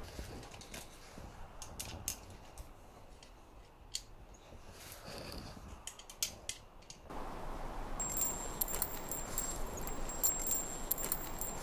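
Sharp metallic clicks of a revolver being handled, its cylinder turned and loaded, scattered over several seconds. About seven seconds in, a steady hiss begins, and soon after a high, continuous metallic jingling and ringing joins it.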